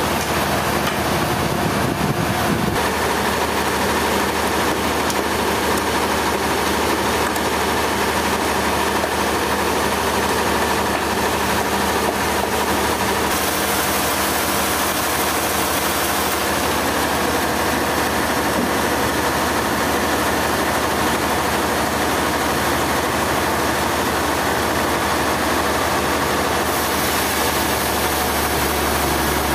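Sawmill machinery running steadily and loudly, with a high hiss that comes in for a few seconds in the middle and again near the end.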